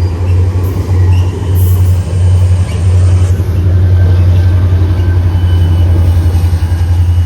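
Train running past at the platform, a loud steady rumble.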